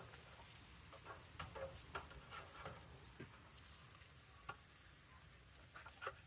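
Hamburger patties sizzling faintly on a barbecue grill, with scattered small pops and crackles.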